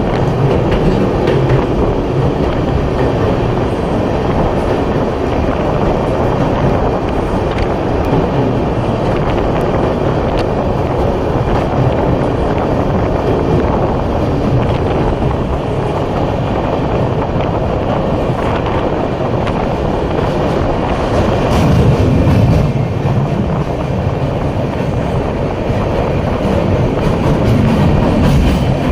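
Train running along the track: a steady, loud rumble with scattered clicks from the wheels.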